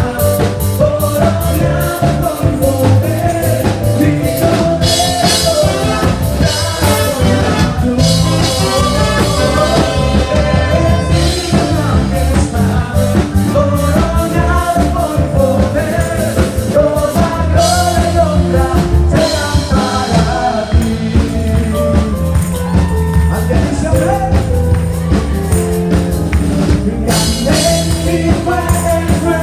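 A band playing a song with a singing voice and a steady drum beat.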